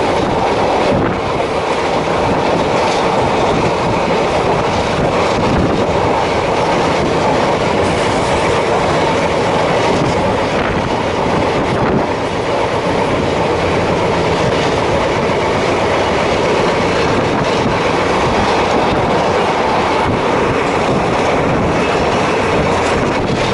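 DEMU (diesel-electric multiple unit) train running along the track, a steady noise of wheels on rail and the moving train heard from on board.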